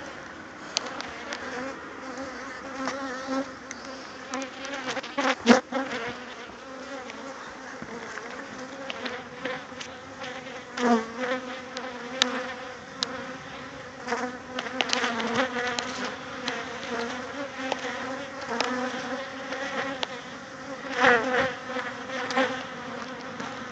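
Honeybees from an established hive buzzing in a steady, many-voiced hum. Several times, single bees fly close past the microphone, and their buzz swells and bends in pitch as they go by.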